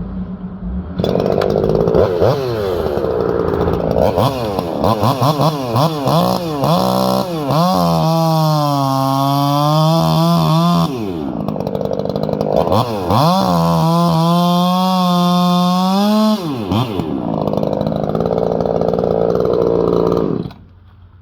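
Ported two-stroke chainsaw revving up, then running at full throttle through two cuts in a white pine log, its pitch sagging under load and rising again as it comes free. It then drops back to a rougher, lower run and shuts off sharply near the end.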